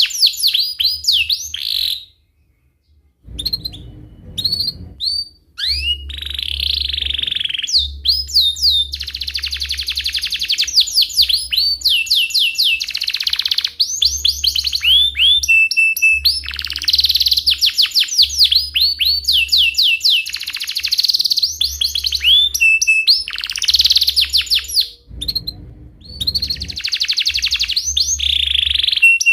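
Domestic canary singing a long, loud song of rapid chirps and fast rolling trills, broken by a couple of short pauses.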